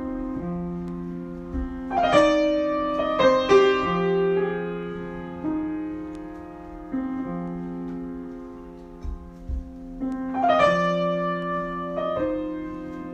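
Solo piano improvisation: slow chords held and left to ring. Fresh, louder chords are struck about two seconds in, again a second later, and again near the end.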